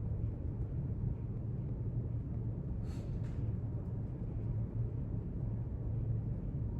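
Steady low rumble of library room ambience, like building ventilation or distant traffic. About three seconds in there is a brief soft rustle, heard twice in quick succession.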